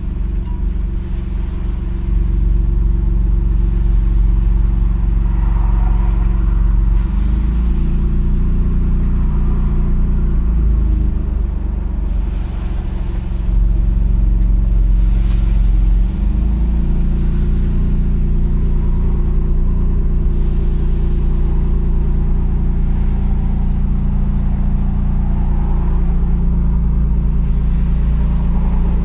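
Maserati MC20's 3.0-litre twin-turbo Nettuno V6 idling steadily, its idle note stepping up and down a few times as the driving modes are switched.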